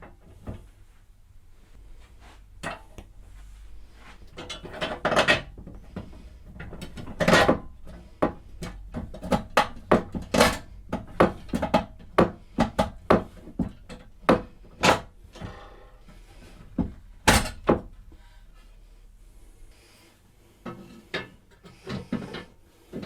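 Tools and parts being handled on a workbench: a run of irregular clicks and knocks, busiest in the middle, over a faint low steady hum.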